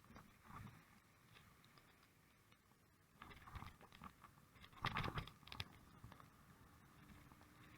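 Faint short bursts of crunching, scraping noise from a bicycle ridden through snow, the loudest burst about five seconds in.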